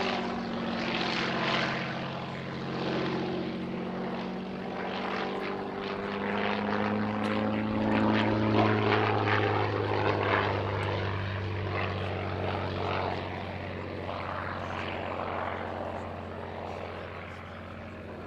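Hawker Fury I biplane's supercharged Rolls-Royce Kestrel V12 piston engine running in a display pass. The note swells to its loudest about eight to ten seconds in, then fades as the aircraft draws away.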